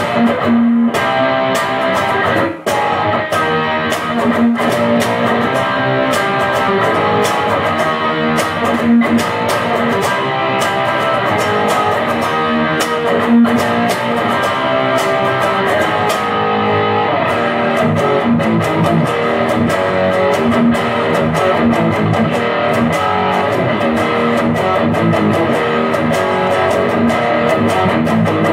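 Electric guitar, a Stratocaster, playing a chord progression in a steady rhythm: strummed chords broken up by percussive muted hits, the fingers laid across the strings to knock out the beat.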